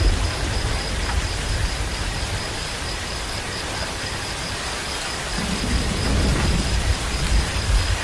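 Steady rain with a low rumble underneath; the rumble swells between about five and a half and seven seconds in, like distant thunder.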